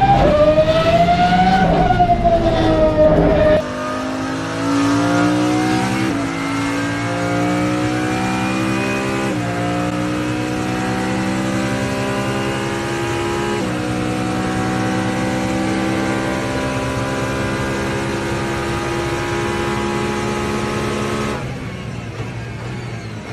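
Pagani Huayra R's naturally aspirated V12 at full throttle. For the first few seconds it is heard close at the exhaust, rising and then falling in pitch. After that it climbs steadily in pitch through the gears toward its high redline, with three quick upshifts, each a sudden drop in pitch, and the engine note stops near the end as the driver lifts off.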